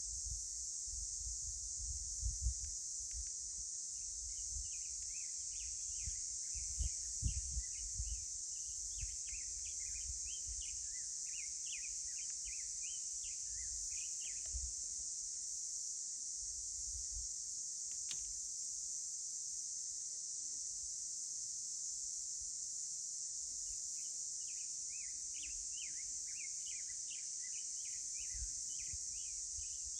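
Outdoor canyon soundscape: a steady high insect drone throughout, with a bird chirping in rapid runs for about ten seconds early on and again near the end. Low rumbles come and go, mostly in the first several seconds.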